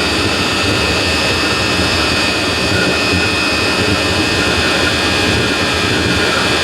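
Chinese diesel heater running steadily on pure engine oil after a successful restart. Its combustion burner and blower make an even rushing noise with a steady high whine over it.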